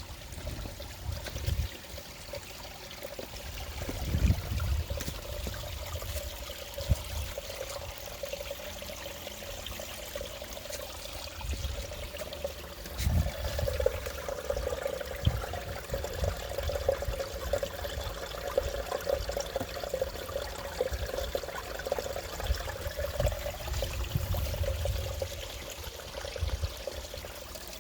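Running water trickling and pouring steadily, like a small stream or outflow.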